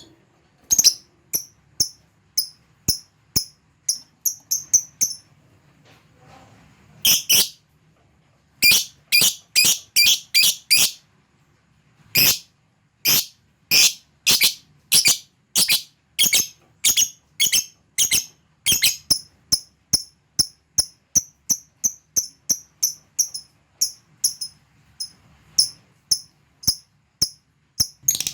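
Lovebird giving a long series of short, sharp, high-pitched chirps, two to three a second, in runs broken by brief pauses: the ticking 'ngetik' call that follows its calls to a rival bird.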